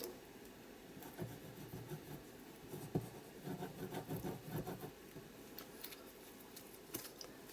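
Faint paper-handling sounds: light rustling, scratching and soft taps as a glue bottle and journal pages are handled, with a small click about three seconds in.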